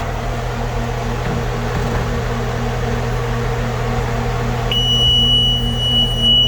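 Blue Bird school bus engine idling with a steady hum. About three-quarters of the way through, the emergency exit door alarm comes on as one steady high-pitched tone, the sign that an emergency exit door has been opened and its alarm works.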